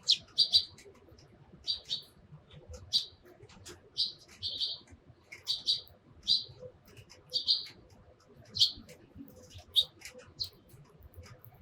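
Eurasian tree sparrows chirping: about a dozen short, sharp chirps, roughly one a second, some coming in quick pairs.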